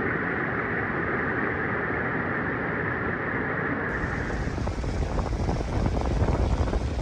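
Steady rushing noise; then, after a cut about four seconds in, strong gusting wind buffeting the microphone with a heavy low rumble.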